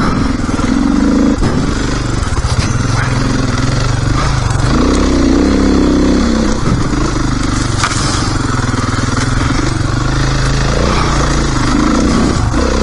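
Dirt bike engine running as it is ridden along a trail, the throttle opening and closing so the engine note rises and falls.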